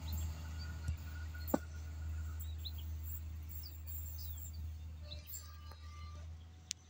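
Low rumble of a train moving away, fading slowly. A few birds chirp over it, and there are a couple of sharp clicks about a second and a half in.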